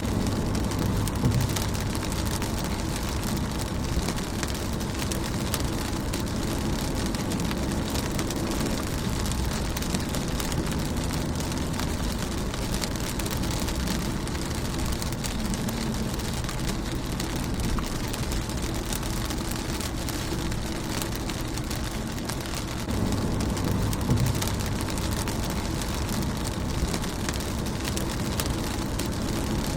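Rain falling steadily on a car's windshield, a dense patter of small drop ticks. A low rumble swells briefly near the start and again about three quarters of the way through.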